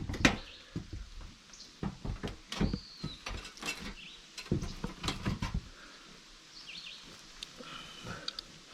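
Short close knocks and rustles, with a few bird chirps: a single high arched note about two and a half seconds in and a brief cluster of calls near the end.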